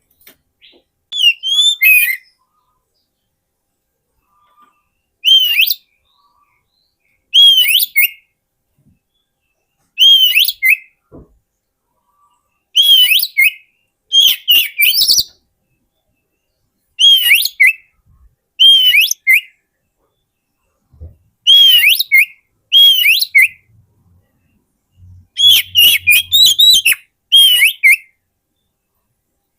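Oriental magpie-robin (kacer) singing: short phrases of sweeping whistled notes, about a dozen of them, each under a second long and spaced a second or two apart with silence between, coming more closely together near the end.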